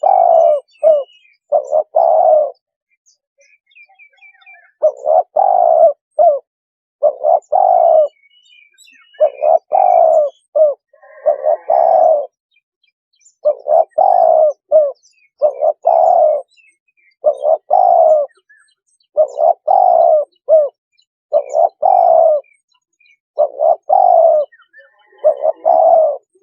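Spotted dove cooing: a phrase of several low coos repeated about every two seconds, a lure call for drawing in wild doves. Faint high chirps of small birds sound between the phrases.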